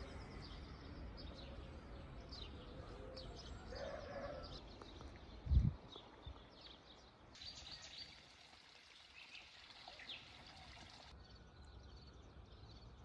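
Small birds chirping and singing over a low background rumble, with one short low thump a little before halfway.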